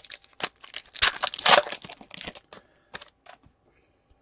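Hockey card pack wrapper crinkling and tearing as a pack is opened, loudest about a second and a half in, followed by a few light clicks of cards being handled.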